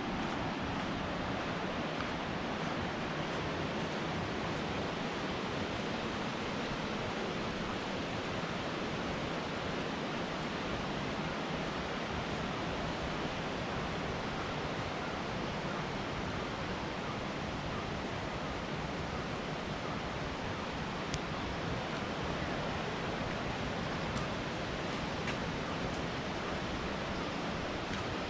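Steady rushing water, an even, unbroken roar of falling or flowing water.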